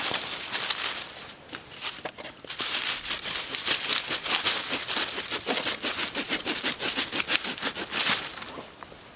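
Aluminium foil being crumpled and crinkled by hand: a dense run of crisp crackling rustles that stops about eight seconds in.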